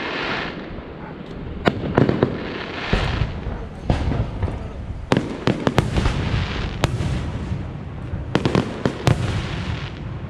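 Aerial fireworks shells bursting in the sky: about a dozen sharp bangs at uneven intervals, some in quick pairs, with hissing and crackle between them.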